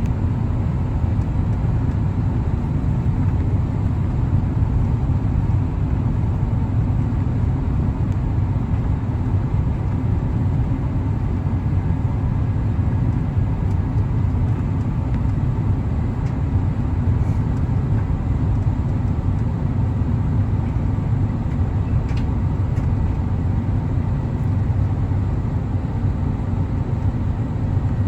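Steady cabin noise inside an Airbus A350-1000 on its descent: a constant low rumble of airflow and the Rolls-Royce Trent XWB engines, with a few faint steady tones above it.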